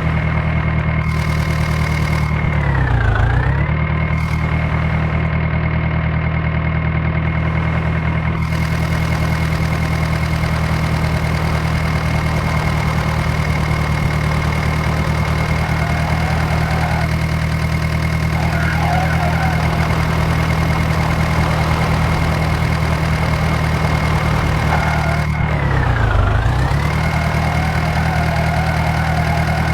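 John Deere 5055 tractor's diesel engine running steadily at constant speed. Its pitch dips briefly and comes back up twice, a few seconds in and near the end.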